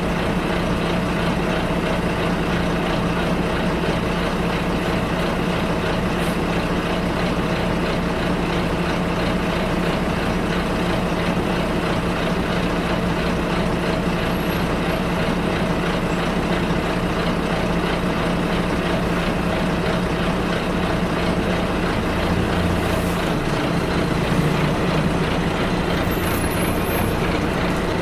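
Bus engine running steadily under a dense hum of road and cabin noise, heard from inside the bus. The engine note shifts a little over two-thirds of the way through.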